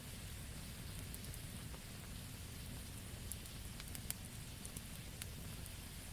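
Burning wood in a campfire crackling: scattered sharp pops and snaps over a steady low rumble of the flames.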